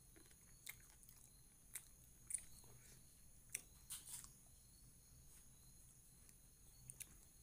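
Faint chewing and lip smacks of a person eating chicken and rice by hand: a handful of soft, irregular mouth clicks over a steady low hiss.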